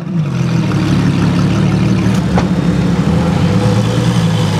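Ferrari LaFerrari's 6.3-litre V12 idling. Its pitch falls as the revs drop back just after the start, then it holds a steady idle. A single short click comes about two and a half seconds in.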